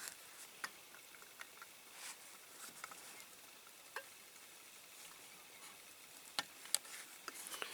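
Faint, scattered small clicks and ticks of a die-cast toy tractor being handled as its tracks are fitted on.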